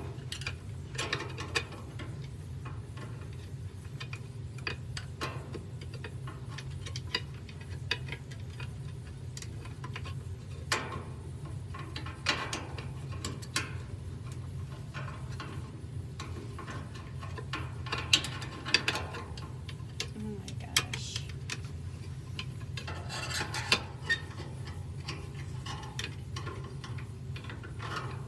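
Scattered clicks, scrapes and rubbing of hands working a washing machine's drain pump and its plastic clips into place by feel, over a steady low hum.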